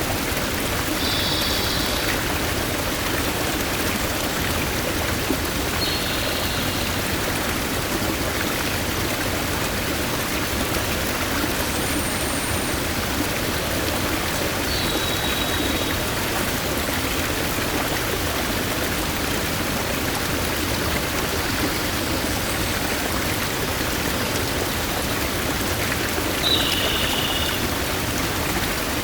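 Steady rush of a clear forest stream flowing over rocks. A few short, high calls break in over the water about four times.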